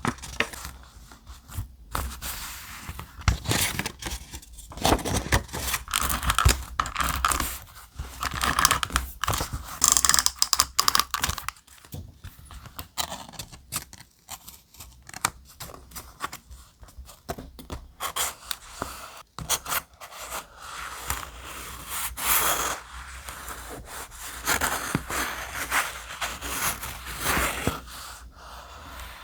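Thick paper being handled close to the microphone: irregular scraping and crinkling with many short, sharp strokes and brief pauses.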